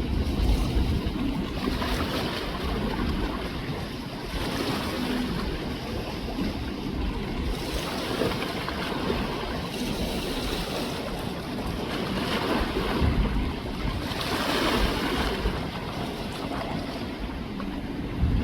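Wind buffeting the microphone over the sound of river water washing, the noise swelling and easing every few seconds.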